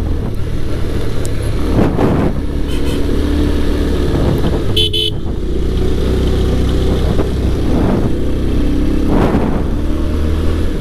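Motorcycle engine running steadily under way, with a short horn beep about five seconds in, as is usual when approaching a hairpin bend.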